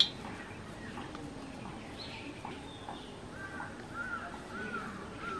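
Birds chirping: short arched calls, one higher call about two seconds in, then a run of four similar chirps repeating roughly every half second near the end. A sharp click right at the start.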